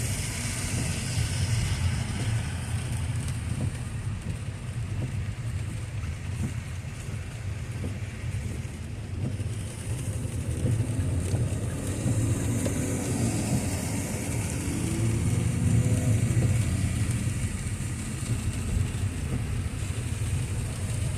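A car being driven in heavy rain, heard from inside the cabin: a steady low road rumble with the hiss of rain and wet road.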